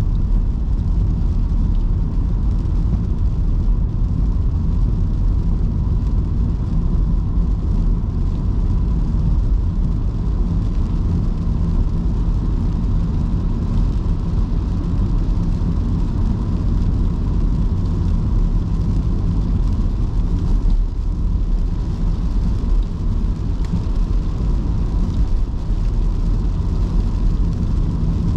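Electric car driving on wet city streets in heavy rain: a steady low rumble of tyres and road noise with rain hiss, and a faint steady whine throughout.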